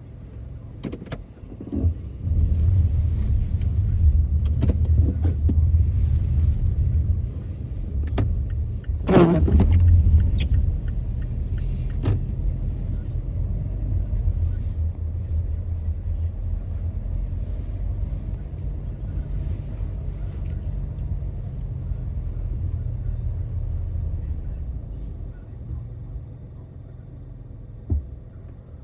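A car driving, with a steady low rumble of engine and road noise. It swells about two seconds in and eases off near the end. Scattered light clicks and a brief falling sweep come about nine seconds in.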